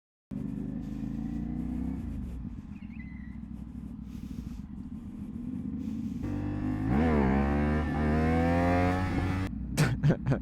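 CFMOTO 450SS parallel-twin motorcycle engine running at low revs. About six seconds in it revs up and accelerates, its pitch climbing steadily for about three seconds before easing off.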